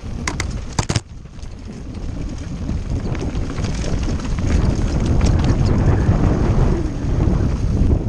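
Wind rushing over an action camera's microphone on a fast mountain-bike descent, growing louder after the first second. A few sharp clicks and rattles from the bike come near the start.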